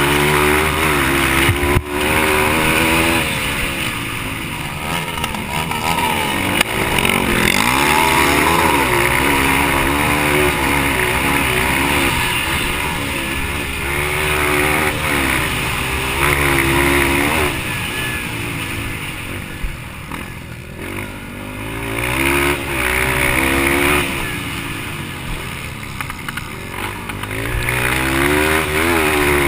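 Yamaha TT-R230 single-cylinder four-stroke dirt bike engine racing hard, revving up and dropping back again and again as the throttle opens and closes through the corners. A steady rushing noise runs under it.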